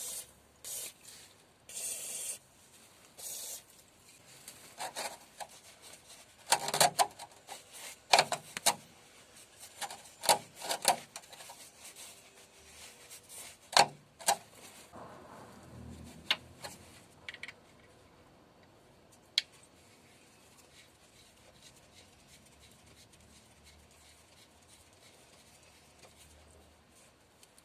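Cleaning around the refitted oil drain plug under the engine: a few short hisses, then rag rubbing and wiping with scattered clicks and knocks, which die away after about seventeen seconds.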